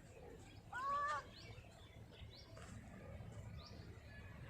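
A single short, high-pitched meow-like call about a second in, rising then falling. Faint high chirps of birds come every second or so over a low outdoor rumble.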